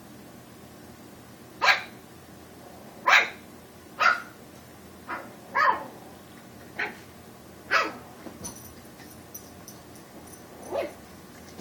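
Pug puppy giving about eight short, sharp barks at irregular intervals, the last one fainter: play barks aimed at a cat that it wants to play with.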